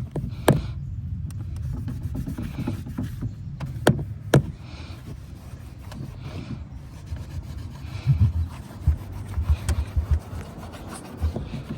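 Scrubbing and wiping strokes on a car's interior surfaces during detailing, repeating every second or two, with a few sharp knocks and clicks from handling.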